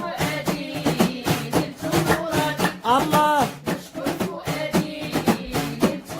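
Devotional dhikr chanting: sung voices over hand percussion keeping a steady beat.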